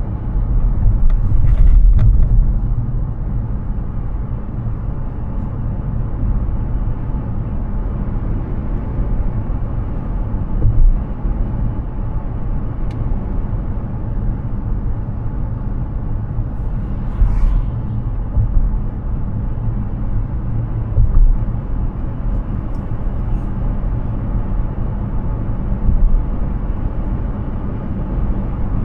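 Steady low road rumble and tyre noise from a Hyundai Ioniq 6 electric car driving along, with no engine note, swelling briefly a few times, most clearly about two seconds in and again near seventeen seconds.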